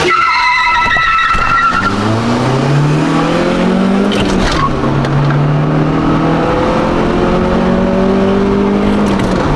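A 1990s Honda accelerating hard from a launch. The tyres squeal for the first two seconds, then the engine revs up, drops in pitch at a gear change about four and a half seconds in, and pulls steadily up through the next gear.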